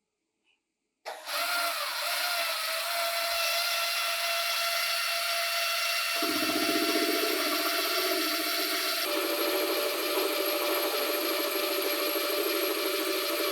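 A power tool starts up about a second in and runs steadily with a whine, its tone shifting twice along the way.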